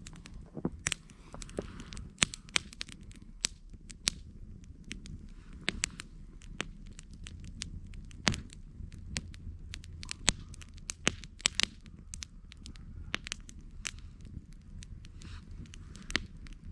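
Campfire crackling, with sharp irregular pops several times a second over a low steady rumble.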